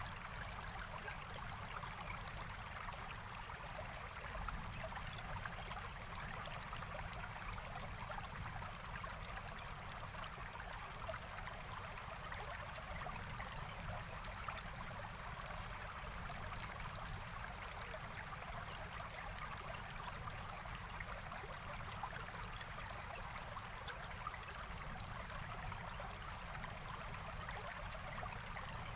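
Forest stream flowing and babbling steadily, with a few faint ticks.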